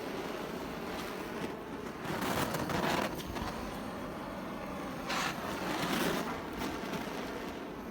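A campfire being lit: a steady rushing noise, with two louder swells about two and five seconds in as the flames catch.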